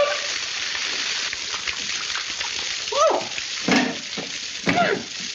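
A steady hiss like water spraying from a broken pipe, with a few short vocal yelps or grunts from about three seconds in.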